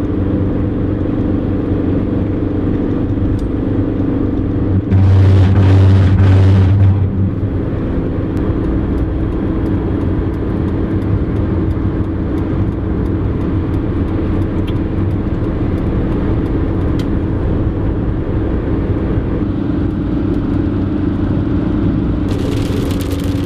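Car cabin sound while driving: a steady engine hum and road noise. About five seconds in, a louder rush swells for about two seconds, and near the end a higher hiss joins in.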